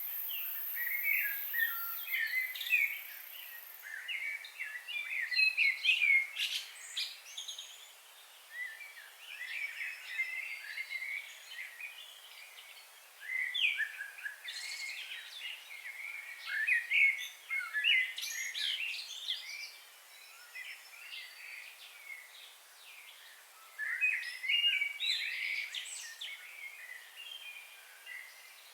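Small birds chirping and twittering in quick bouts a few seconds long, with short lulls between them, over a faint steady background hiss.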